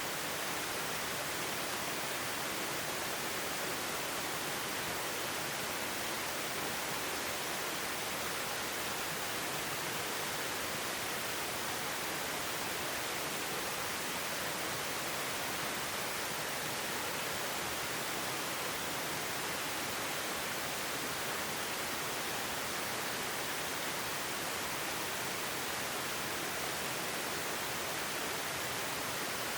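Steady, even rush of water from a flowing stream.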